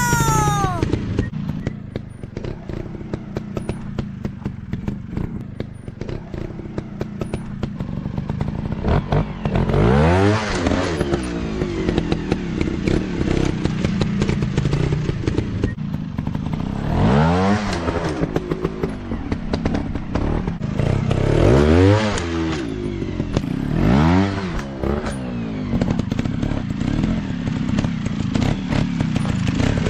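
Off-road dirt bike engines running and revving up and down in repeated bursts, rising and falling in pitch about four times, with clattering underneath.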